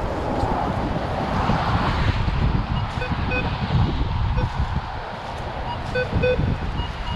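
Wind buffeting the microphone with a gusty low rumble, over which a Minelab Vanquish 440 metal detector gives short paired beeps, twice, as it picks up targets.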